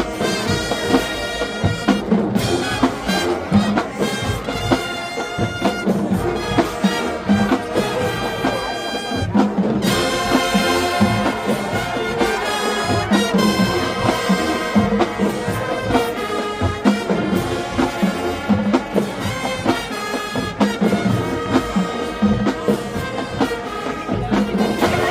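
High school marching band playing: brass chords from trumpets and trombones over a steady drum beat, the brass growing fuller about ten seconds in.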